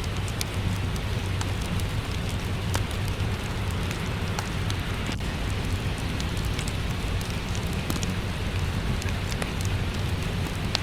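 Steady rain with a low rumble, mixed with the scattered pops and crackles of a fireplace.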